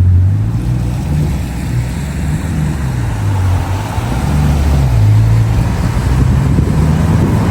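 Bugatti Chiron Sport's quad-turbo W16 engine running at low, steady speed: a deep drone that shifts a little in pitch, with no hard revving, over road noise.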